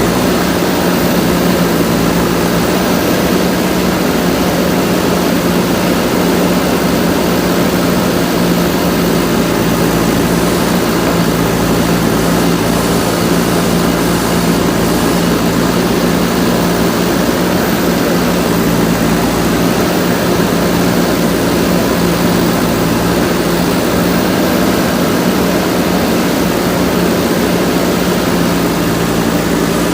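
JCB backhoe loader's diesel engine running steadily, a constant drone with no clear revving.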